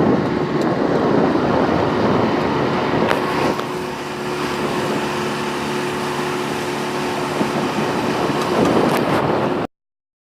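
An engine running steadily with a low hum under a dense rushing noise. It cuts off abruptly near the end.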